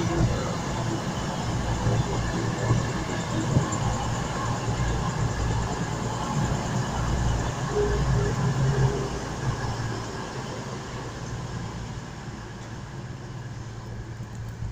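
CrossCountry Class 221 Super Voyager diesel multiple unit running with its underfloor diesel engines going, a steady rumble that fades gradually in the last few seconds as the train moves away.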